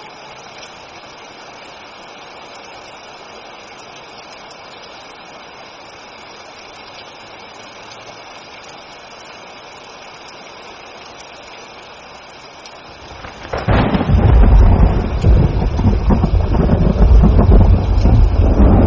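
Steady rain hiss, then about thirteen seconds in a loud thunderclap breaks in and rolls on as a deep, crackling rumble.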